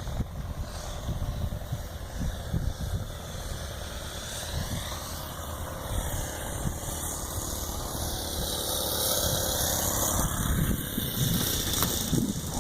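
Saito 125A four-stroke glow engine of a P-51 R/C model airplane running in flight on its landing approach. Its pitch swings up and down as the plane moves past, and it grows louder toward the end. Wind rumbles on the microphone throughout.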